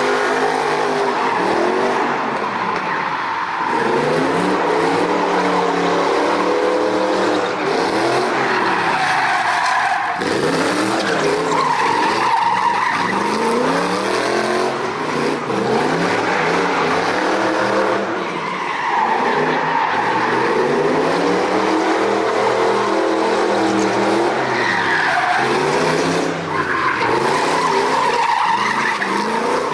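Straight-piped V8 in a BMW E46 drift car, its revs rising and falling over and over through a series of drifts, with the tyres squealing and skidding.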